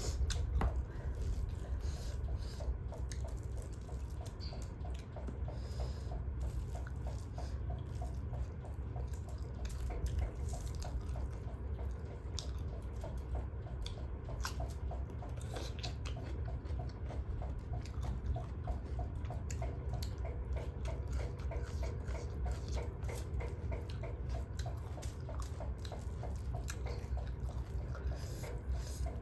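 Wet chewing and mouth smacking of someone eating duck curry, with many small clicks, over a steady low hum.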